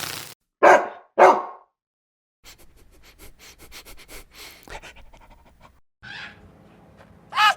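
Two loud, short barks from a canine, about half a second apart and about a second in, then soft clicking and rustling, and another short loud call near the end.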